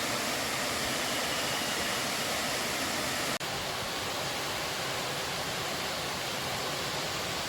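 Waterfall: a steady, even rush of falling water, broken by a brief dropout about a third of the way in where the recording is cut.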